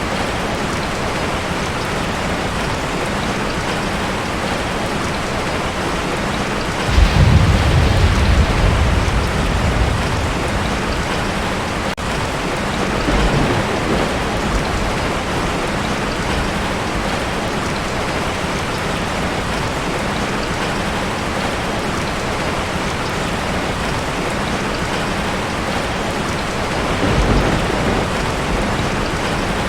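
Heavy rain drumming steadily on a tin roof. Thunder cracks sharply about seven seconds in and rumbles away over a few seconds, with fainter rumbles around fourteen seconds and again near the end.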